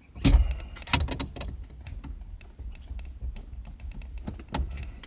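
Irregular metal clicks and knocks of a harmonic puller and the loosened steering wheel being worked by hand, with two louder knocks in the first second and lighter clicks after.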